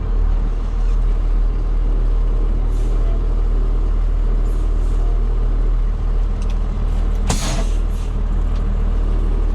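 Diesel engine of farm harvest machinery running steadily under way, a loud low drone. About seven seconds in, a short hiss cuts across it for about half a second.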